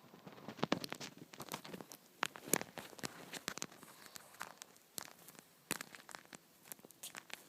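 Irregular close-up clicks, taps and scratchy rustling of a parrot clambering about, its claws and beak on the camera.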